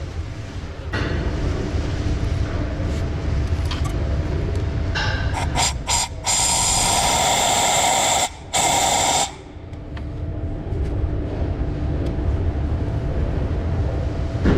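Compressed-air blow gun hissing: a few short puffs, then a long blast of about two seconds and a shorter one just after, blowing out a glow plug hole. A steady low hum runs underneath.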